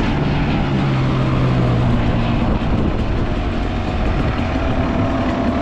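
Dirt bike engine running at a steady low speed under a broad rushing noise, then cutting off suddenly near the end.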